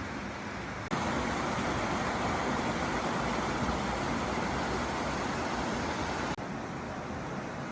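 Stream water rushing steadily. About a second in it cuts abruptly to a louder, closer stretch of the same rushing, which cuts back to the softer level after about five and a half seconds.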